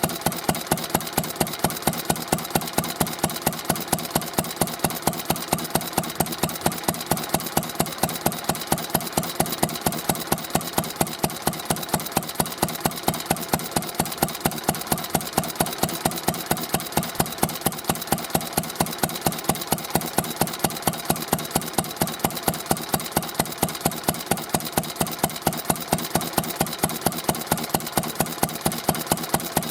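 Isami MB-20 kerosene stationary engine running at a steady idle, its exhaust beats coming evenly and regularly.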